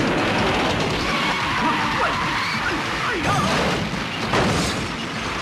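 Film car-chase soundtrack: cars crashing and smashing, with a loud hit about four seconds in.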